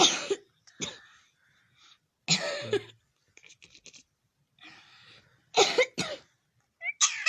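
Talking myna bird imitating coughing: several harsh cough-like bursts a couple of seconds apart, then a quick run of chirpy whistled calls near the end.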